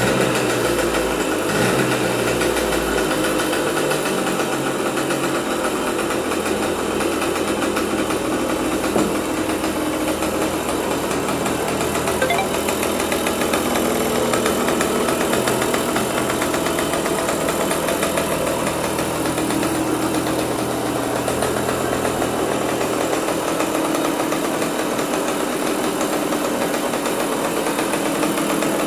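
Hercules G3 moped's 50 cc Sachs two-stroke single-cylinder engine running steadily on its first start after years of storage, fed through a freshly cleaned carburettor. The revs shift in the first few seconds, then settle to an even run.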